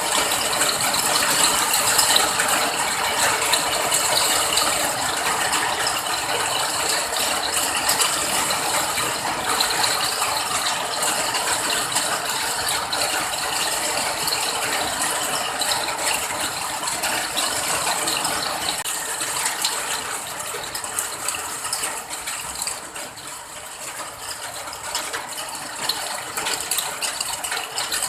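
Steady rain falling, a dense patter of many drops, easing slightly about two-thirds of the way through.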